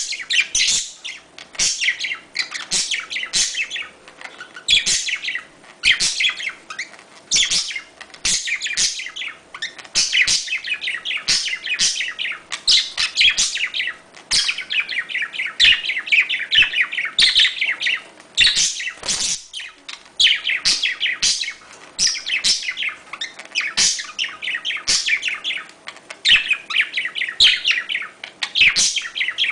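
Small pet parrots chirping and chattering in rapid, near-continuous strings of shrill calls, several a second, with a brief lull about two-thirds of the way through.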